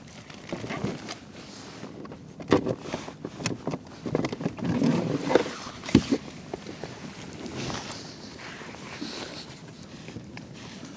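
Fishing gear and a landed fish being handled aboard a kayak: irregular knocks, clicks and rustling, busiest in the middle, with one sharp knock about six seconds in.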